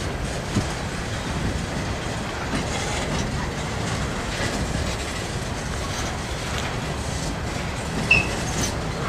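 Freight train of open-top hopper cars rolling past: a steady rumble of steel wheels on the rails with faint clicks, and one brief high squeak about eight seconds in.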